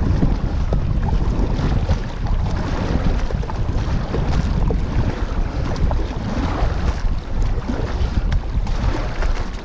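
Strong wind buffeting the microphone over rough, whitecapped lake water, with waves splashing against a canoe.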